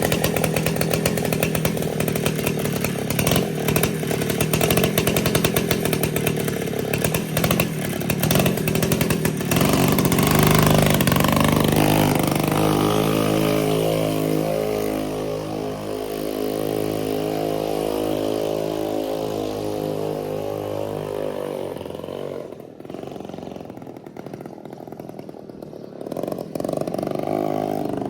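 Mini bike's small engine running: revved hard for about the first ten seconds, then settling with its pitch slowly falling. It drops to a quieter idle a little after twenty seconds and picks up again near the end.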